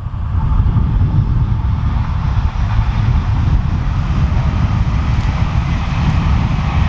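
A train running past on the mainline: a steady heavy rumble with rail noise, its higher part growing a little stronger near the end.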